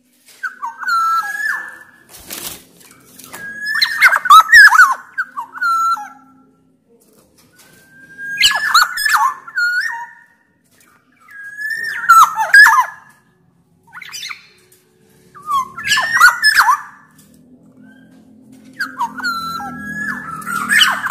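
Black-naped oriole singing: loud fluting whistled phrases with gliding notes, mixed with harsh rasping notes, repeated about every three to four seconds.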